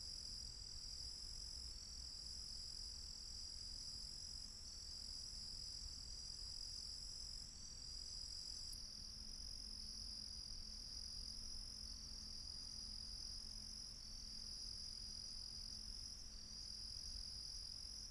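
Steady high-pitched chorus of insects trilling at several pitches, with a faint low rumble beneath; one of the higher trills stops abruptly about nine seconds in.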